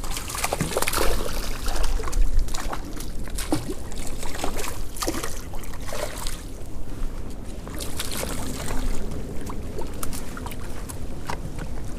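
Water splashing and sloshing as a hooked brown trout thrashes in a creek during the fight, over running creek water, with wind buffeting the microphone.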